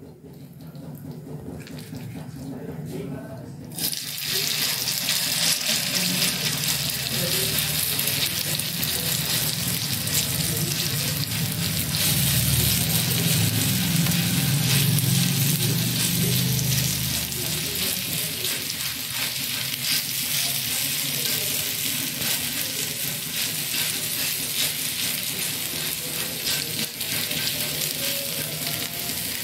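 Grated potato and besan chila batter sizzling in hot oil on a tawa griddle. A steady hiss starts suddenly about four seconds in as the mixture hits the oil and is spread out with a spoon.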